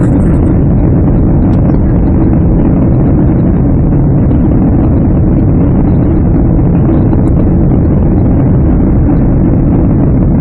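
Boeing 767-300 jet engines heard from inside the passenger cabin under power: a loud, steady, deep rumble that holds even throughout.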